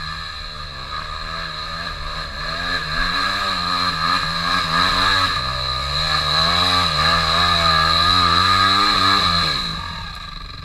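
Trail motorcycle engine revving up and down over and over under load, typical of a bike climbing a dirt trail. It grows louder, then falls away near the end.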